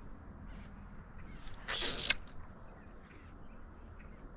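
A brief splash of water about two seconds in, as a big fish is netted beside the canoe, over quiet lake background.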